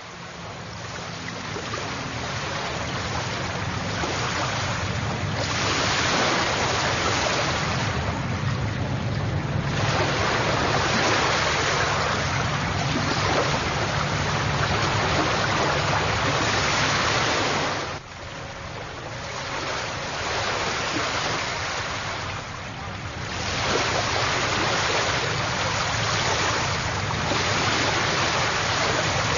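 Rushing water, a dense steady noise that swells and eases over several seconds at a time, over a low rumble. The noise drops suddenly about 18 seconds in, then builds again.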